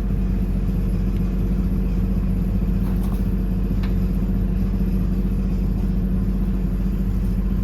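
Steady, even drone of a 1/8-scale ride-on F7 Hiawatha locomotive running as it creeps along at very slow speed.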